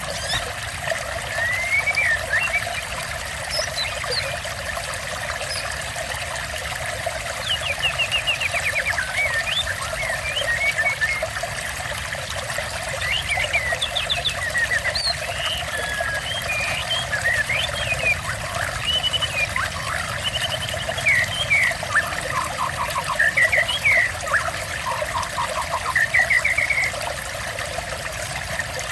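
Water trickling steadily, with songbirds chirping, whistling and trilling in short phrases throughout. Near the end come a few quick runs of repeated notes.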